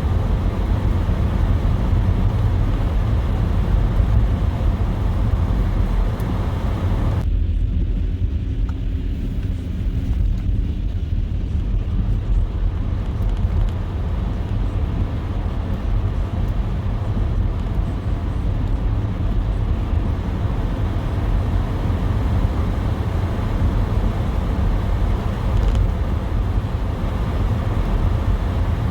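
Car driving on a snowy parkway: a steady low road and engine rumble with a hiss of road noise over it. About seven seconds in the hiss drops away suddenly, then slowly builds back.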